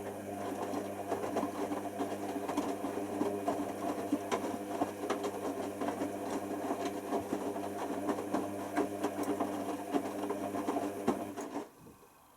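Hoover Nextra washer dryer running: a steady motor hum with rapid clicking and rattling over it, which stops abruptly near the end.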